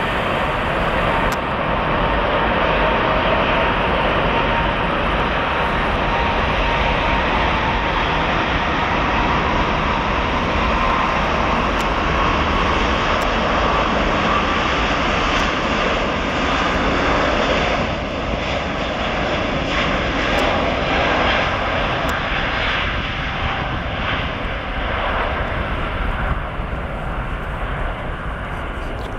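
Airbus A380-800 jet engines at takeoff power: a loud, steady roar with a faint whine that rises slightly. It eases a little about two-thirds of the way through and fades toward the end as the aircraft moves away.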